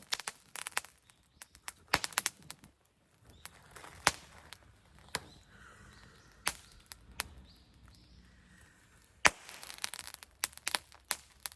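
Campfire wood crackling: scattered sharp pops and snaps at irregular intervals over a faint hiss, the loudest pop about nine seconds in.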